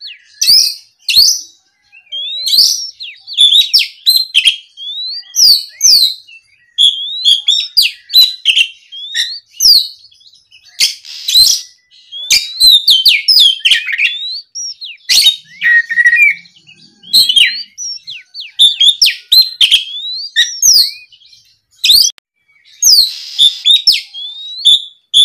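Oriental magpie-robin (kacer) singing loudly in full song: a fast, unbroken run of varied whistled phrases, quick sweeping notes and sharp chirps, with only brief pauses.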